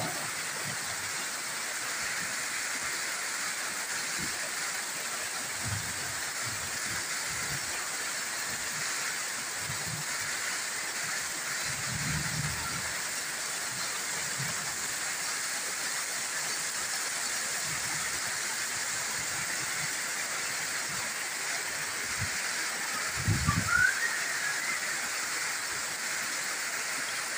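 Steady rain falling on banana leaves and a corrugated roof, an even hiss throughout, with a few dull low thumps, the clearest about twelve and twenty-three seconds in.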